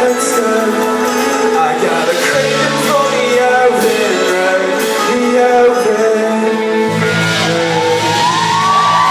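Live band playing loud amplified music with a voice singing over it; a deeper bass line comes in about seven seconds in.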